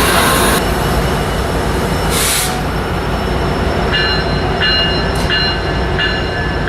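A train passing close by, with the steady low rumble of the locomotive and wheels on the rails. About four seconds in, a ringing tone starts repeating roughly every two-thirds of a second.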